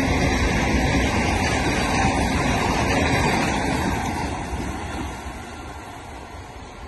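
Thameslink electric multiple-unit train passing at speed on the far track, giving a steady loud rush of running noise that fades over the last few seconds as the train draws away.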